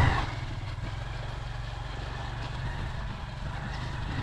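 A vehicle's engine running steadily with road noise. The sound starts abruptly, then holds as an even low hum under a hiss.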